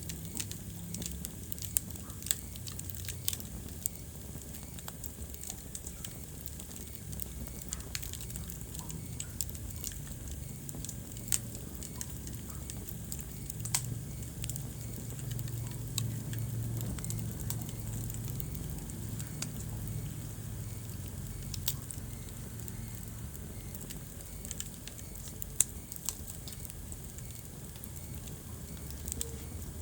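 Wood fire crackling in a fireplace: irregular sharp pops and snaps, a few louder ones scattered through, over a low steady rumble of the flames.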